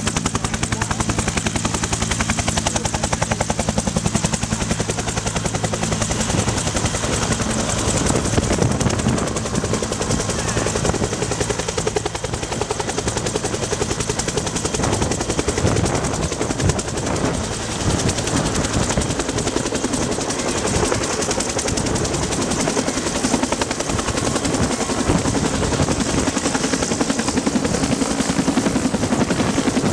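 Bell UH-1 Huey helicopter running, its two-bladed main rotor beating in a fast, steady chop over the turbine's noise.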